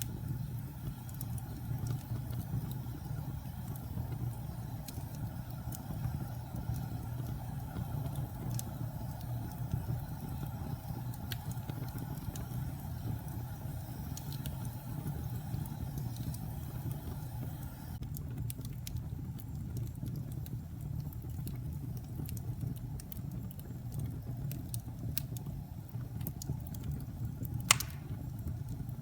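Wood fire burning in a fireplace: a steady low rumble of flames with scattered crackles, which come more often in the second half, and one sharp loud pop near the end.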